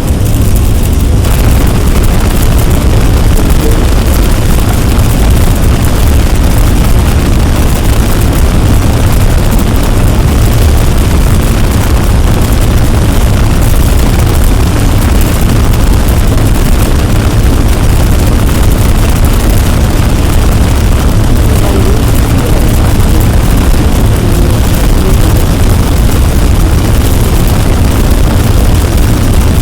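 Loud, unbroken wall of rumbling noise, heaviest in the deep low end, with no separate events or pitched sounds.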